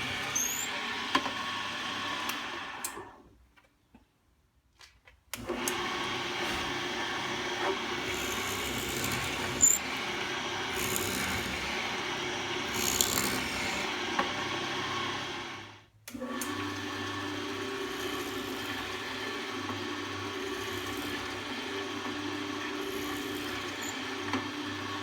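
Restored Atlas 73 drill press running smoothly, its electric motor and belt-driven spindle humming steadily while drilling test holes. It winds down about three seconds in, is silent for a couple of seconds, starts again abruptly, and cuts out and restarts once more about two-thirds of the way through.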